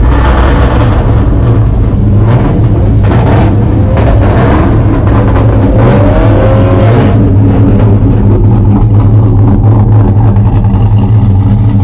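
Loud vehicle engine running close by and revving, with a rough noise over it for about the first seven seconds that then eases into a steadier sound.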